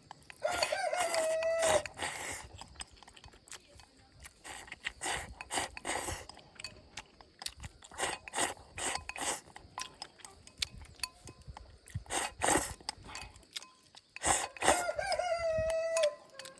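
Rooster crowing twice, one long crow near the start and another near the end, each held and then falling away. Scattered short clicks and knocks come in between.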